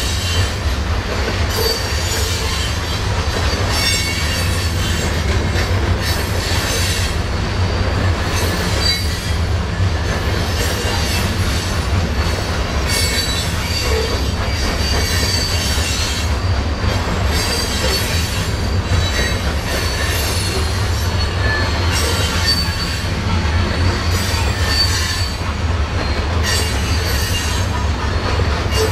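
Cascade and Columbia River Railroad freight train rolling by. Its wheels squeal in high, thin tones that come and go over a steady low rumble, with irregular clacks from the cars.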